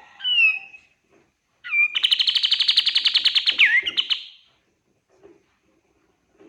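A kapas tembak (cream-vented bulbul) singing: a brief whistled call with sliding notes, then about a second and a half in a loud, fast trill of about twelve notes a second lasting over two seconds, ending on a falling note.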